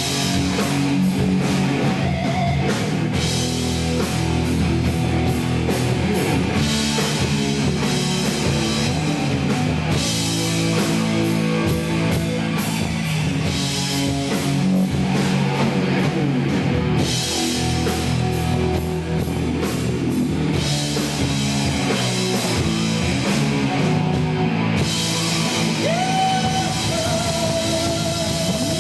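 Live rock band playing loud, with drum kit and electric guitar, in a poor-quality recording.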